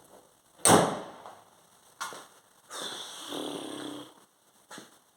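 A loud, heavy thud about a second in, then a lighter knock, a short rough breathy sound lasting just over a second, and another small knock near the end.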